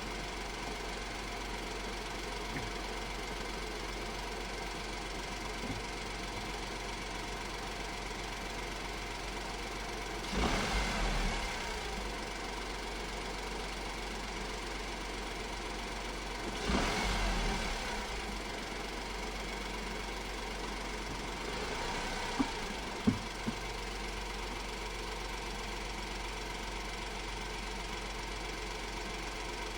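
Honda S660's 658 cc turbocharged three-cylinder engine idling steadily, with three brief louder swells about a third, half and two thirds of the way through, and a few sharp clicks just after the last one.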